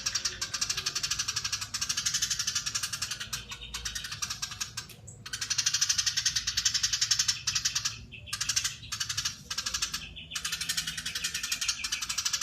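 Eurasian tree sparrow giving its long, rapid chattering call, a dense run of fast churring notes broken by several brief pauses.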